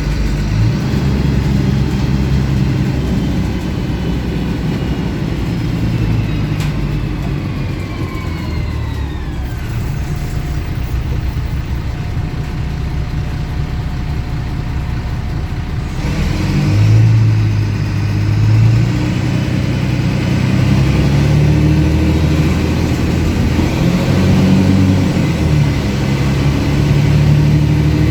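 MAN 18.220 bus's six-cylinder diesel engine with an unusually loud exhaust, driving along; it slows with a falling whine about a third of the way in, then pulls away again with the engine note climbing in steps through the gears.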